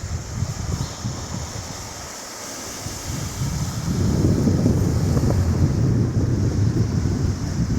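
Wind buffeting the microphone over the hiss of sea surf. The gusts drop away about two seconds in and pick up again, stronger, about four seconds in.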